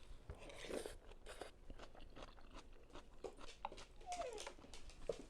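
Chewing and crunching of vegetables from a bowl of vegetable pho, a run of short, crisp crunches.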